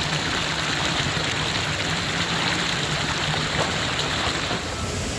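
Steady rushing of flowing water, a dense hiss with a low hum underneath. The hiss thins suddenly near the end.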